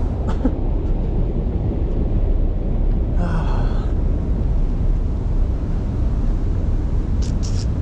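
Steady low rumbling noise with no clear pitch, with a brief higher, squeal-like sound about three seconds in.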